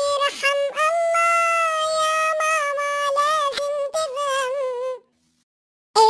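High, pitched-up cartoon voice singing with a synthetic, chipmunk-like sound, holding one note for about a second in the middle. It cuts off to a second of dead silence near the end.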